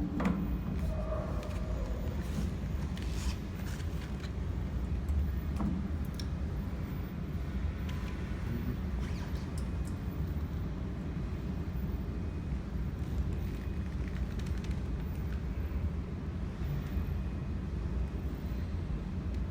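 Steady low hum with a few light clicks and taps.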